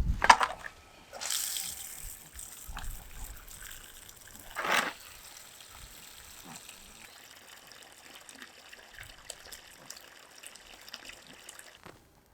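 Water splashing and trickling, with a knock at the start and two louder gushes, one about a second in and one near five seconds in.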